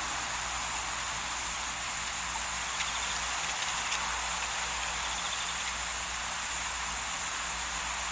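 Steady outdoor ambience of insects chirring, with a low hum beneath and a couple of faint clicks.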